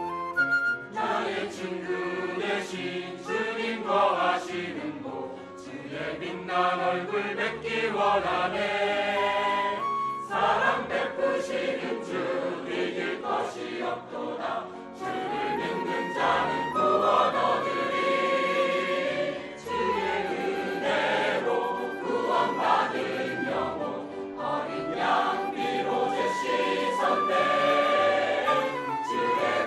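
Church choir singing a Korean gospel anthem in parts, with instrumental accompaniment.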